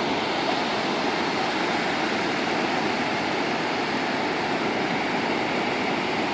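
Steady roar of ocean surf breaking, an even wash of noise with no pauses.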